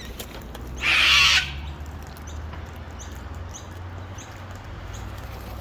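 A cockatoo gives one harsh screech about a second in, lasting about half a second, with faint short chirps from other birds around it.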